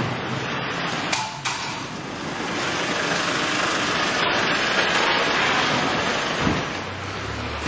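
Steady hiss of rain falling, with two sharp clicks a little after a second in and a dull low thump about six and a half seconds in.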